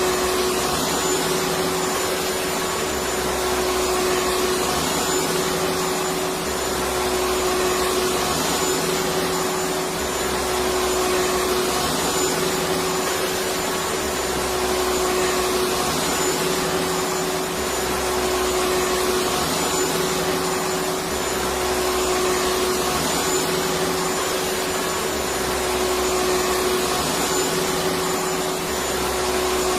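Electric vacuum cleaner running steadily: a constant rushing noise with a steady whine, unchanging throughout.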